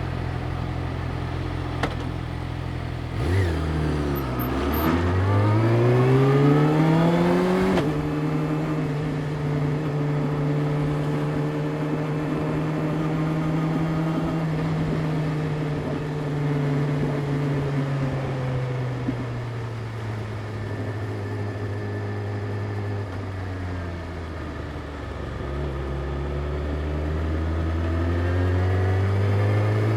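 Yamaha YZF-R6's inline-four engine running steadily at low revs, then dipping and climbing in pitch as the bike pulls away about three seconds in, until a gear change near eight seconds. It then holds a steady, slowly falling note and climbs again near the end.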